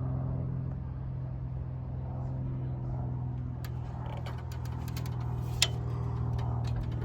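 Steady mechanical hum of a running motor or engine, with a single sharp click about five and a half seconds in.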